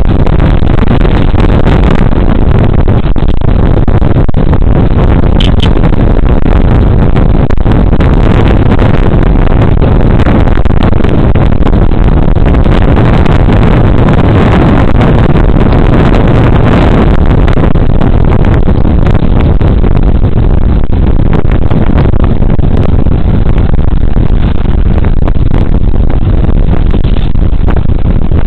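Loud, steady wind rush over a body camera's microphone on a moving Suzuki Burgman Street 125 scooter, mixed with the scooter's engine and road noise.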